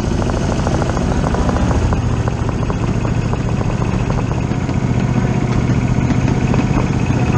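Miniature railroad train running, with a fast, even pulsing beat over a steady low hum.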